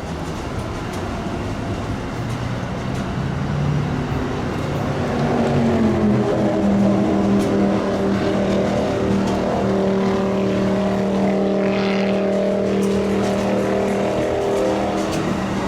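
Amtrak P42DC diesel locomotive's engine revving up: its pitch rises over a couple of seconds about four seconds in, then holds steady under power.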